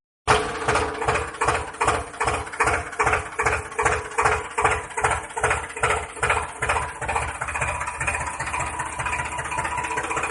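Tractor engine idling with an even chug of about three beats a second, which smooths out near the end.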